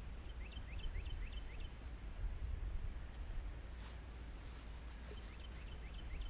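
A bird calling two quick series of about five short rising whistled notes each, one near the start and one near the end, over a low outdoor rumble.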